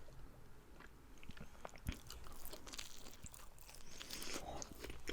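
Quiet close-miked chewing and biting of pizza, with soft crunches and small mouth clicks; one sharper crunch about two seconds in.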